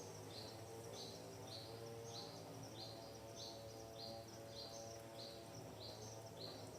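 A bird repeating one short, high chirp in an even rhythm, about one and a half times a second, over a steady low hum.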